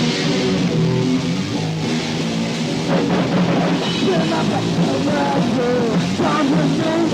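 Punk band playing loud and lo-fi on a four-track demo recording, with distorted electric guitar, bass and a drum kit. A wavering, sliding melody line comes in about four seconds in.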